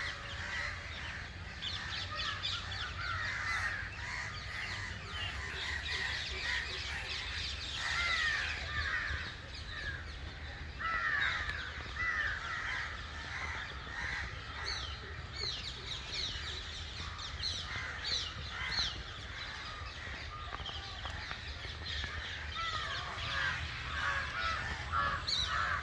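Many birds calling at once: a dense, continuous chorus of short, overlapping chirping calls.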